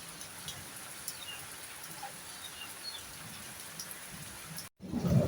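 Steady heavy rain, with a few short bird chirps in the first three seconds. Near the end the sound cuts out for a moment and a louder low rumble of thunder begins.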